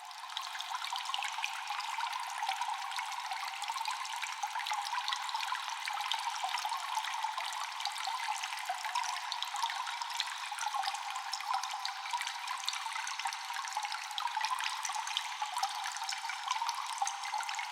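Constant cave water dripping and trickling: many small drops fall close together over a steady wash of running water, with an echo.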